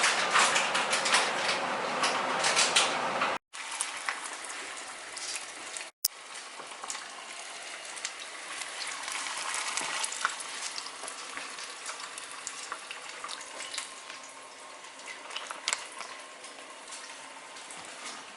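Chicken pieces frying in hot oil: a steady sizzle and crackle with many small pops. There are two brief dropouts to silence about three and a half and six seconds in.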